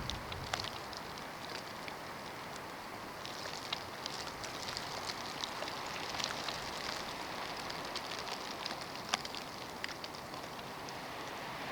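Snowstorm: a steady hiss of blowing snow, scattered with many light, irregular ticks of snow grains striking surfaces.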